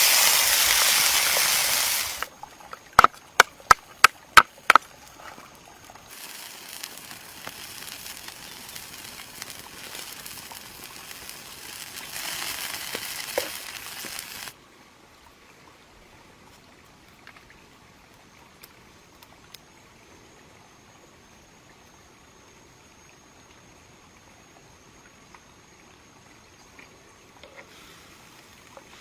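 Food sizzling as it fries, loud at first and cut off about two seconds in. About six sharp knocks follow in quick succession, then a softer hiss for several seconds, then quiet with a faint steady high tone.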